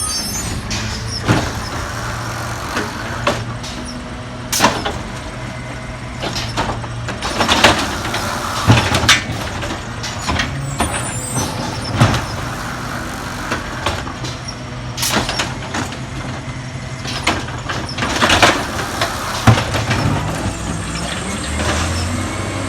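Peterbilt 320 garbage truck's engine running steadily, with repeated sudden bangs and clanks and several short hisses scattered throughout.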